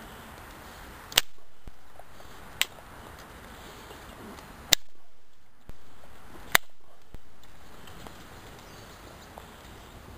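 Campfire wood popping and snapping: four sharp, loud pops in the first seven seconds over a faint hiss.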